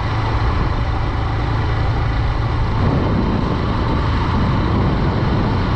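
Honda Dream 110's single-cylinder four-stroke engine running while the motorcycle is ridden, mixed with steady wind and road noise.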